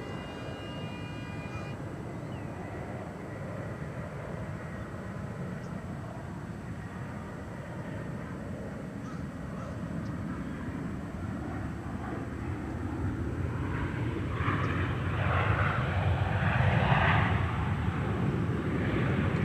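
Jet engines of Airbus A321 airliners on the runway after landing, a steady rumble that grows louder, with a rushing roar swelling in the last few seconds.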